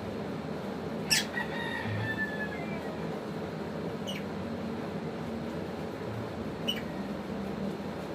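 African lovebirds giving three short, shrill chirps that sweep downward in pitch, about a second, four seconds and six and a half seconds in; the first is the loudest and trails off in a thin whistle. A steady low hum runs underneath.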